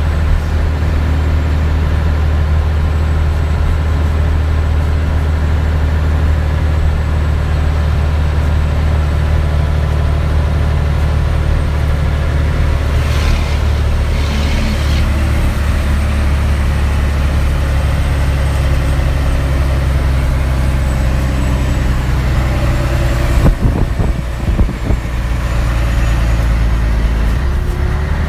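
Scania 113H truck's 11-litre inline-six diesel pulling steadily up a long grade. There are two brief hisses about halfway through and a few sharp knocks near the end.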